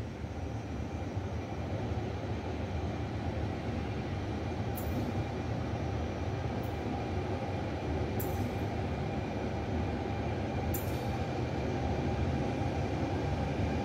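Regional passenger train approaching a station platform: a steady low rumble that slowly grows louder, with four short high squeals in the second half.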